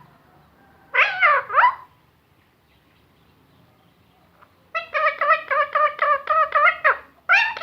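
A talking parrot vocalizing: a short call with sliding pitch about a second in, then after a pause a fast run of about a dozen short repeated syllables, about five a second, and another call near the end.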